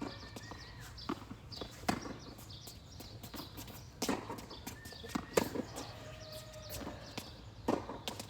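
Tennis rally: a racket striking the ball with sharp pops every second or two, with ball bounces and footsteps on the court.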